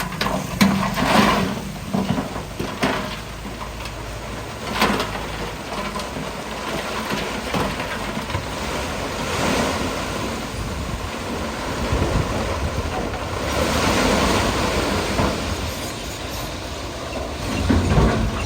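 Komatsu bulldozer working: diesel engine running under load with the grinding and crunching of rock being pushed, louder in a couple of stretches.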